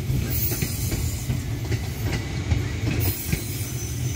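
Ex-JR East 205 series electric commuter train passing, a steady rumble of its wheels on the rails with a few clicks as they run over the rail joints.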